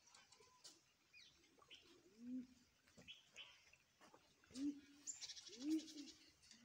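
Birds calling in dry scrub: a dove cooing in three low, rounded phrases, with small birds chirping and a fast, high trill about halfway through.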